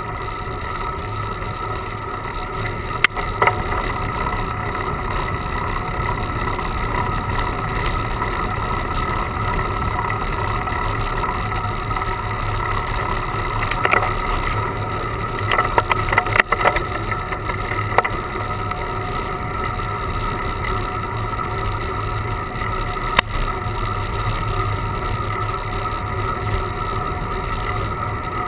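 Steady ride noise from a bicycle on a climb, wind and road rumble on a camera carried on the bike, with a few sharp clicks and knocks scattered through it, a cluster of them about two-thirds of the way in.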